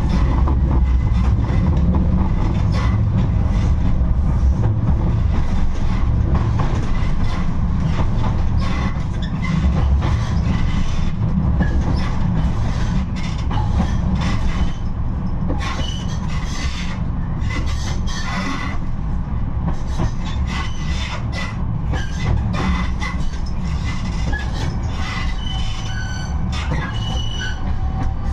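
A 71-628-02 tram running between stops: a steady low rumble of the wheels on the rails, with frequent clicks and short high wheel squeals in the second half.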